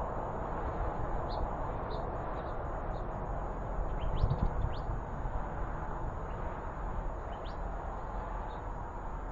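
Outdoor background hiss with a few short, high bird chirps scattered through it, several close together around the middle.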